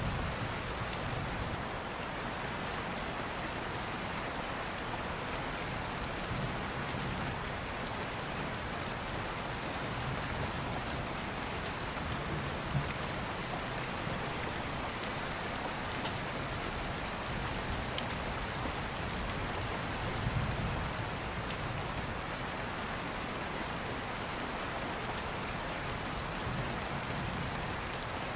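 Steady rain on a surface, with a few sharp crackles from an open fire and soft low rumbles of distant thunder swelling now and then.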